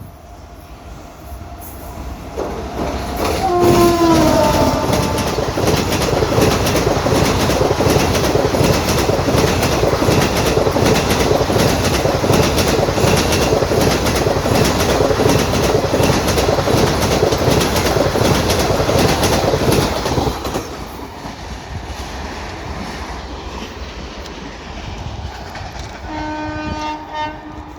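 Tejas Express train running past with wheels clattering over the rail joints (clickety-clack). Its horn sounds about four seconds in, falling slightly in pitch, and the clatter stays loud until it drops off at about twenty seconds. A second, steady horn blast comes near the end.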